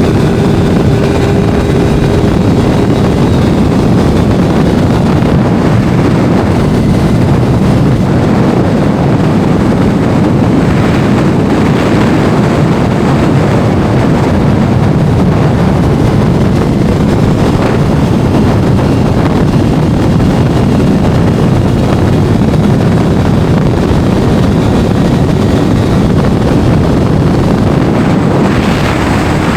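Steady heavy wind rush on the microphone of a moving sport motorcycle, with the engine running underneath it.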